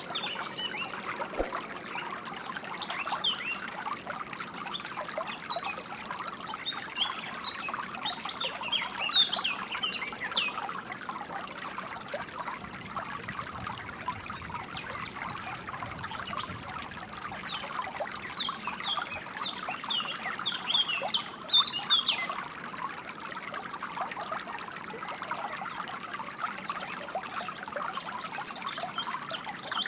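Small stream of water trickling and splashing steadily, with songbirds chirping over it in bursts, busiest in the first ten seconds and again around twenty seconds in.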